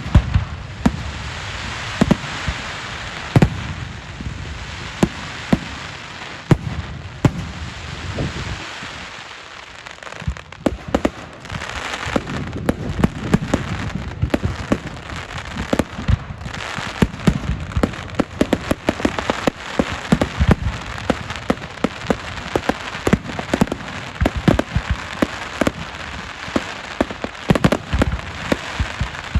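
Fireworks display: a continuous crackling hiss with many sharp bangs going off in quick succession, easing briefly about a third of the way in, then building again into dense volleys.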